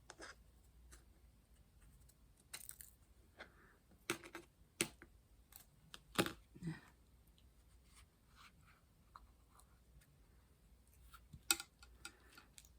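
Scattered light clicks and taps with faint rustling, about eight in all and irregularly spaced: small craft items being handled, as in diamond painting.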